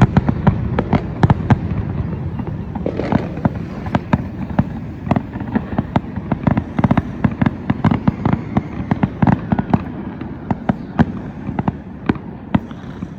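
Fireworks going off: a rapid run of sharp pops and bangs over a low rumble, dense at first and thinning out and growing quieter toward the end.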